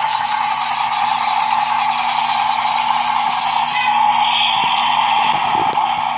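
Battery-powered toy running continuously, a steady electric whir with a high hiss; its sound changes about four seconds in.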